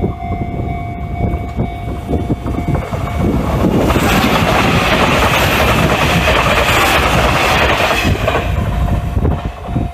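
Nishitetsu electric commuter train passing close by on its track, the rush of wheels on rail building about three seconds in, loud for several seconds, then falling away near the end.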